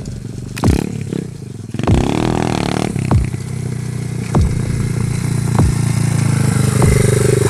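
Pit bike single-cylinder engine running, with a brief rev about two seconds in, and a sharp thump roughly every second and a bit.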